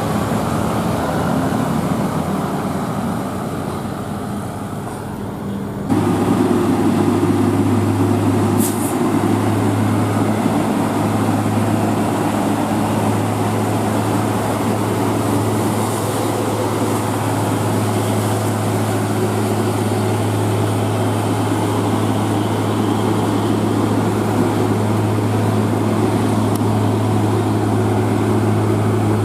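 A heavy road vehicle's engine, a bus or truck, running with a loud, steady low drone. About six seconds in it suddenly gets louder and stays there.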